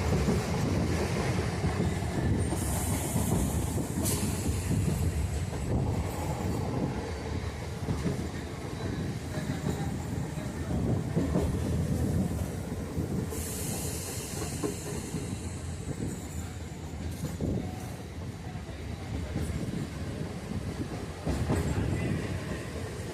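Indian passenger train running on the rails: a steady low rumble with occasional knocks of the wheels over rail joints. A high hiss rises twice, around three seconds in and again around fourteen seconds in.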